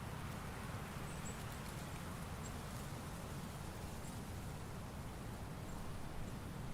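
Steady autumn forest ambience: a soft, even hiss over a low rumble, with faint short high ticks now and then.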